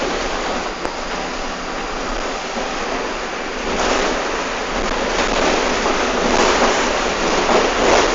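Cabin noise inside a moving Mercedes-Benz OF-1519 city bus in the rain: a steady rush of tyres on the wet road and rain, swelling louder in several waves from about four seconds in.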